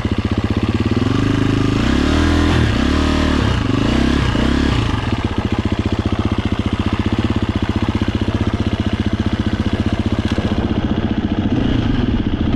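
Husqvarna FE 350 enduro bike's four-stroke single-cylinder engine running at low revs, with several quick throttle blips rising and falling between about one and five seconds in, then settling back to steady low-rev running.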